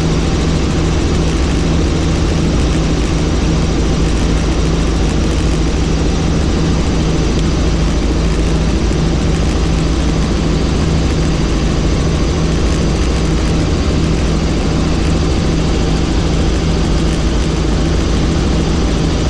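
Helicopter in flight: engine and rotor running loud and steady, with a constant low hum and no changes in pitch.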